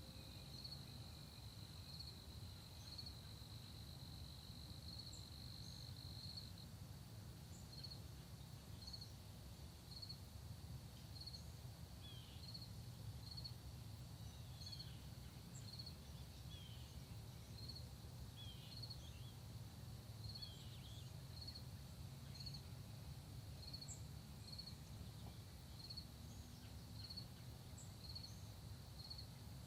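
Faint early-morning insect chorus: crickets keep up a steady high trill with regular pulsed chirps about three every two seconds, over a low rumble. A few short, descending bird chirps come in around the middle.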